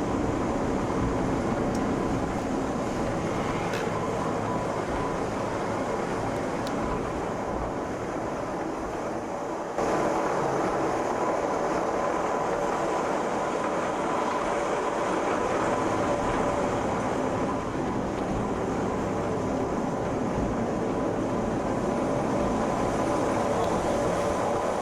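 Train running: a steady rumble with a faint, even whine. The sound changes abruptly about ten seconds in and becomes a little louder.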